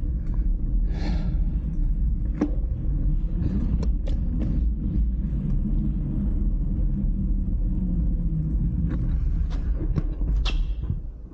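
Steady low rumble of wind and rolling noise on a camera carried on a moving bike, with a few short clicks and knocks.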